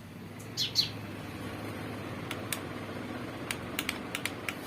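Scattered sharp clicks over a steady low hum, with a bird chirping briefly a little under a second in.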